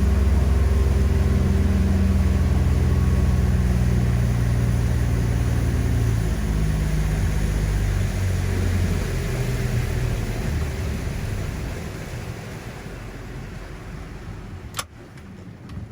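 Tour boat's engine running steadily under way, with wind and water noise, then easing off and growing quieter over the last few seconds. A single sharp click comes near the end.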